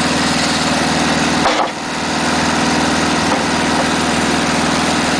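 Volkswagen engine running steadily, driving a portable dimensional sawmill. About one and a half seconds in there is a short sharp sound, and the level briefly dips before the engine settles again.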